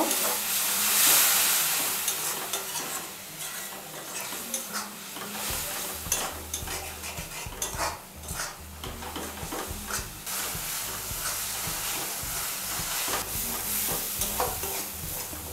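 Spice masala of onion, tomato and ground spices sizzling in hot oil in a metal kadai while a flat metal spatula stirs and scrapes it, with frequent scraping clicks of the spatula on the pan. The sizzle is loudest about a second in: the masala is being fried down (kosha).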